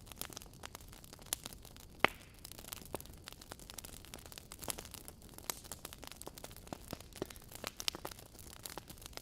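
Wood logs burning in a fireplace: irregular crackles and pops over a low steady hiss, with one loud pop about two seconds in.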